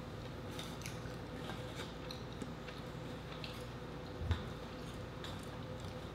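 Close-miked chewing of noodles and rice: small wet mouth clicks and squishes scattered through, over a faint steady hum. A soft low thump comes about four seconds in.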